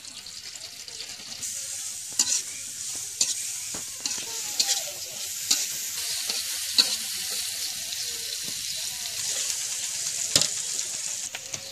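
Sliced onions and green chillies sizzling in hot oil in a black metal karahi. The sizzle swells about a second and a half in, and a metal spatula stirring them knocks and scrapes against the pan now and then.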